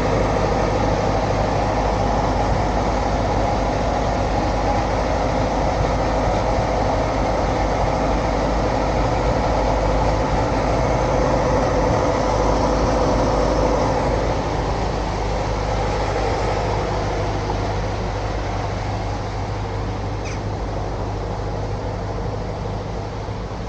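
Steady mechanical running noise of a large vehicle, with a droning hum, easing off gradually after about fourteen seconds.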